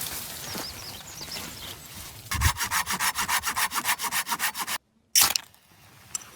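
A hand saw cutting wood in fast, even rasping strokes, roughly eight a second, after a couple of seconds of lighter scraping on wood. The sound breaks off briefly, then comes one short loud crack.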